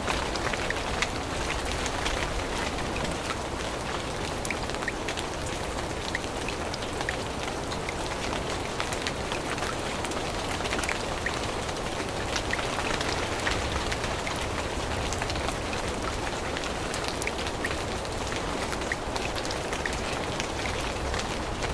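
Steady rain falling in a forest, an even hiss with many separate drops ticking close by.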